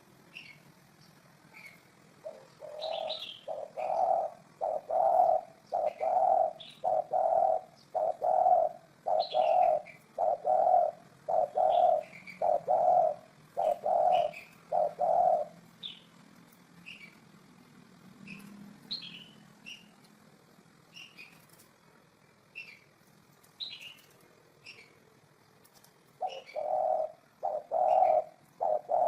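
Spotted dove cooing: a long run of low, evenly spaced coos, a little under one a second, stopping about halfway and starting again near the end. Small birds chirp high above it throughout.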